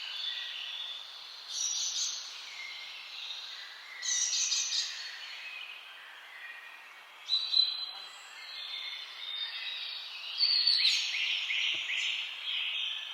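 Several songbirds singing and calling over a steady faint hiss, with short trilled phrases every few seconds; the longest and loudest trill comes about ten seconds in.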